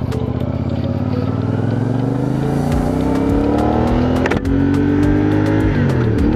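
Motorcycle engine, a CFMoto 450NK parallel twin, accelerating under way: the revs climb steadily, break briefly for a gear change about four and a half seconds in, climb again and drop near the end.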